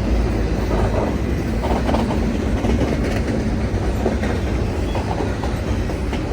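Freight train's cars rolling past close by: a steady, loud rumble of steel wheels on the rails, with light irregular clicks.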